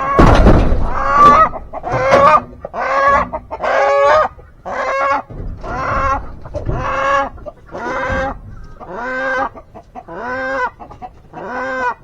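Chicken calling over and over, more than a dozen loud, even calls about one and a half a second, after a loud rustle at the start.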